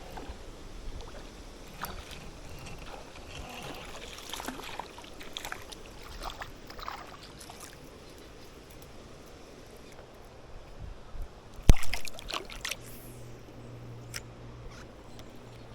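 River water sloshing and trickling, with scattered small splashes and clicks. A sharp, louder splash or knock comes about twelve seconds in, and a low steady hum starts soon after.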